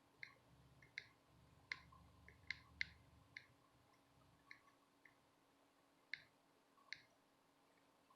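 Near silence broken by about a dozen faint, irregular light clicks and taps of small hand tools on a circuit board during soldering.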